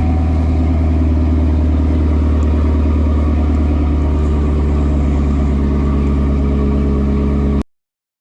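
A vehicle engine running with a steady, unchanging drone, which cuts off abruptly about seven and a half seconds in.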